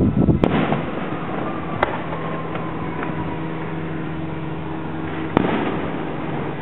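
Aerial fireworks shells bursting: a quick cluster of bangs at the start, a single bang about two seconds in and another near the end, over a steady low hum.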